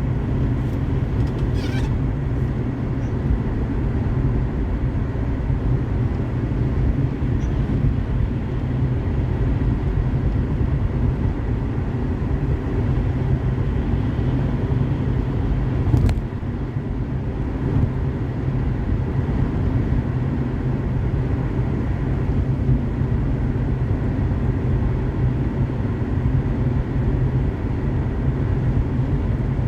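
Car driving on a wet highway in the rain: a steady low rumble of tyres and engine, with a single sharp click about sixteen seconds in.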